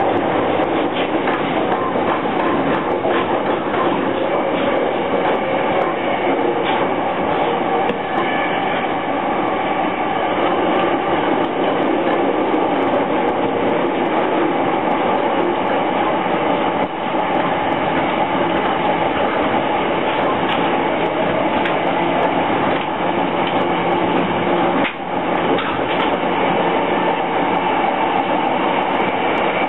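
Running noise heard inside a JR East E231 series electric train on the Yamanote Line: a steady rumble of wheels on rail with faint clicking from rail joints. The noise dips briefly twice in the second half.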